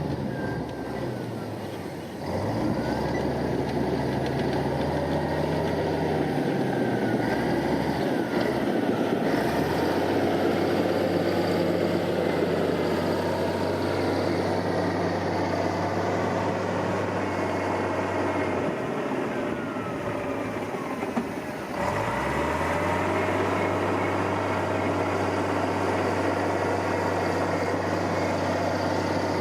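Heavy diesel engine of an earthmoving machine running under load. It drops in revs twice, about two seconds in and again near the end, then climbs back up each time, with faint squeals sliding in pitch above the engine.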